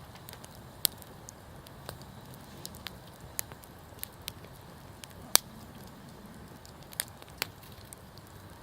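Wood campfire crackling, with irregular sharp pops, the loudest about five seconds in, over a faint low steady rumble of the flames.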